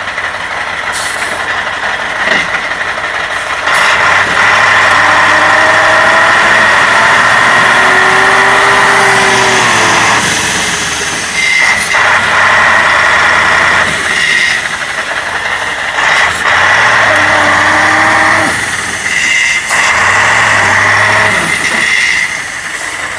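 Heavy truck's diesel engine revving hard in four surges of several seconds each, with a high whine, easing off between them as the truck is rocked back and forth to get it out of the mud.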